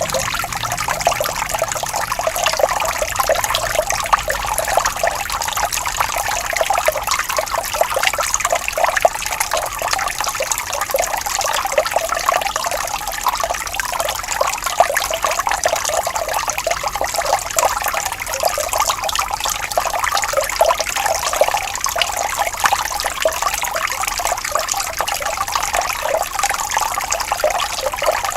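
Gently flowing water trickling and babbling steadily, a continuous fine splashing with no pauses.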